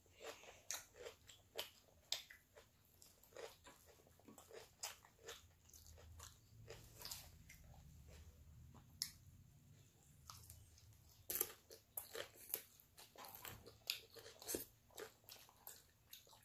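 Close-up, faint sounds of people eating: soft, irregular bites, crunches and mouth clicks of chewing on chicken nuggets and a taco salad.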